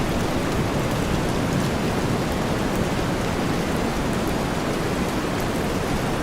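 Steady rain blended with deep white noise: an even, unbroken hiss weighted toward the low end, with faint scattered patter of drops on top.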